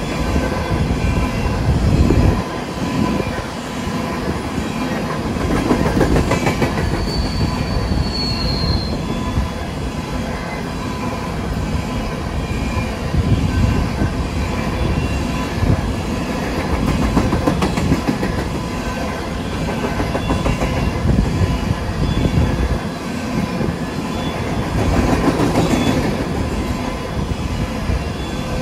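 Empty coal hopper cars rolling past, their wheels making a steady rumble on the rail. A brief high wheel squeal comes about seven seconds in.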